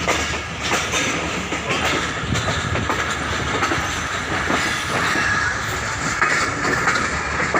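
Passenger train running, its wheels clacking rhythmically over the rail joints over a steady rumble, with a higher wheel screech coming in from about halfway.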